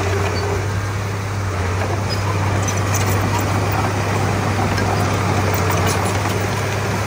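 Komatsu D31P bulldozer's diesel engine running steadily with a low hum, with a faint clatter of scattered clicks over it.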